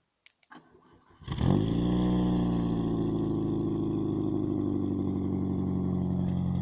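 A VAZ 2109's 1.5-litre 16-valve four-cylinder engine, exhaust through a stock manifold, resonator and ProSport straight-through muffler, starting: a few faint clicks, then about a second in it catches with a brief flare and settles into a steady idle.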